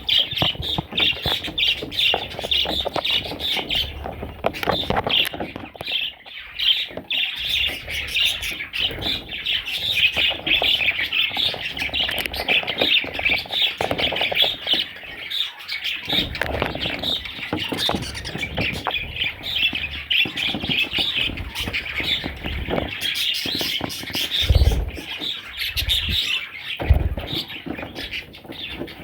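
Budgerigars chattering: a dense, continuous stream of chirps and squawks. A few low thumps come near the end.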